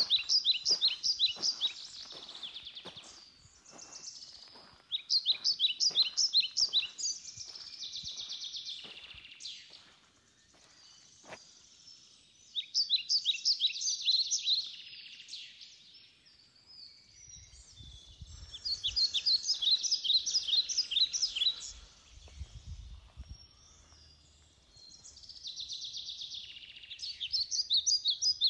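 A songbird singing: short phrases of rapid high notes, repeated about every six seconds. For the first few seconds there are footsteps on gravel, about two a second.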